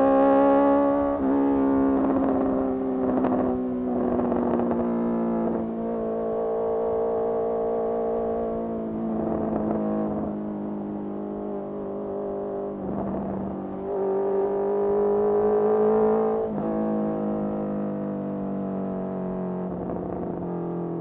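Honda CBR650R's inline-four engine through a Mivv MK3 carbon exhaust, riding on and off the throttle. The revs climb until a gear change about a second in, then mostly fall away with several short breaks, rise again about two-thirds of the way through and ease off near the end.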